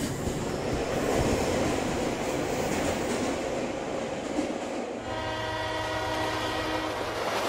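Cartoon train sound effects: a train rushing past with a rumbling clatter, then a horn sounding one long steady note for about two seconds, starting about five seconds in.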